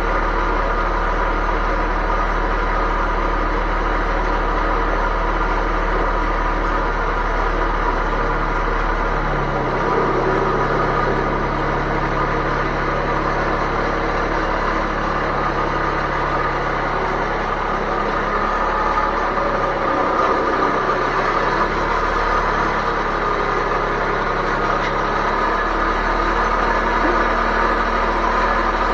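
An engine running steadily; its speed steps up about ten seconds in and drops back near the end.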